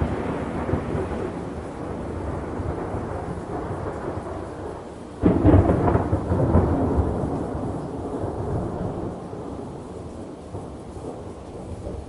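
Thunder rumbling over a steady hiss of rain. About five seconds in, a fresh thunderclap breaks in suddenly and rolls on, fading slowly over the following seconds.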